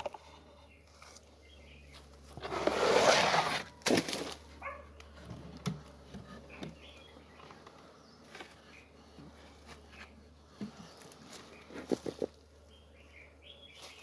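Handling noises while working beehives: a loud rustling scrape lasting about a second, starting two and a half seconds in, then a sharp knock and scattered light knocks and clicks over a steady low hum.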